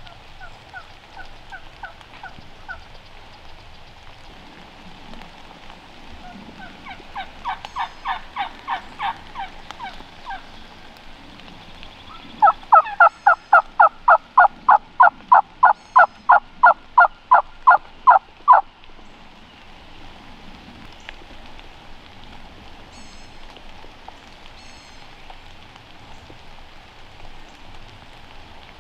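Turkey yelping in three runs of evenly repeated notes: a faint short run near the start, a louder run about seven seconds in, and a long, very loud run of about twenty notes from about twelve to eighteen seconds in.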